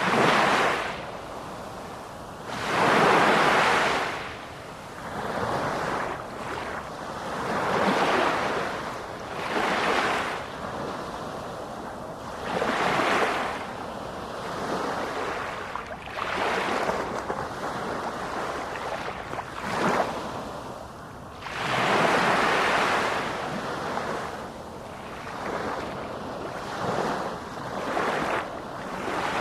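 Sea waves breaking, in repeated surging washes a few seconds apart that swell and fade, the strongest ones near the start and about two-thirds of the way through.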